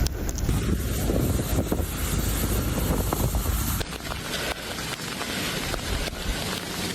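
Wind buffeting the microphone with a heavy low rumble. About four seconds in, it changes abruptly to a steadier hiss with faint scattered ticks.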